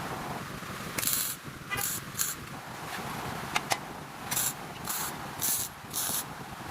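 Several short hissing bursts in a row, each a fraction of a second, with a couple of sharp clicks between them over a steady low background.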